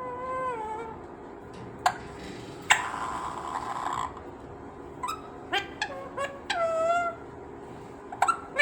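Pet green parrot calling: a string of short pitched squawks and whistles, several sliding down in pitch, with two sharp clicks and a harsher, rasping call around three seconds in.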